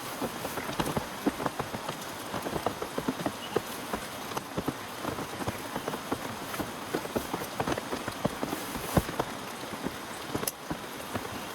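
Heavy rain with dense, irregular drops tapping sharply on a nearby surface. One louder tap comes about nine seconds in.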